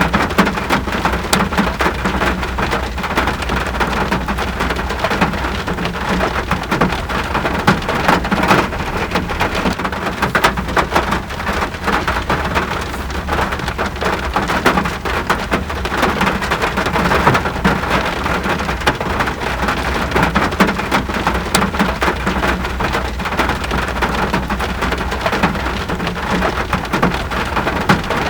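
Steady heavy rain falling on surfaces, a dense even hiss with many separate drops pattering through it.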